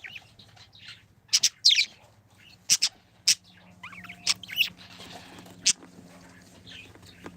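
Pet budgies chirping in short, sharp, high calls scattered irregularly, with the loudest bursts in the first half, over a faint steady hum.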